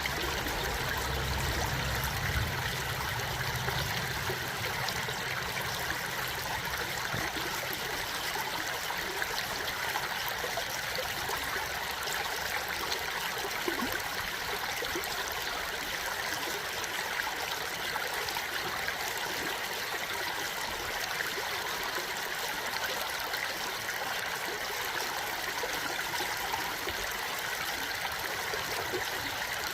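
A stream flowing steadily over rocks, an even rushing and trickling. A low rumble underneath fades out about eight seconds in.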